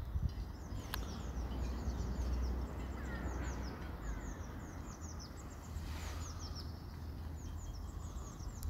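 Small birds chirping: many short, high notes that slide downward, repeated in quick succession, over a low steady rumble.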